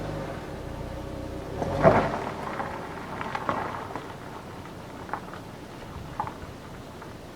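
A 2009 Mazda 6 four-cylinder engine running with a low hum. About two seconds in comes a loud thump, and the engine's hum is gone after it. A few light clicks and knocks follow.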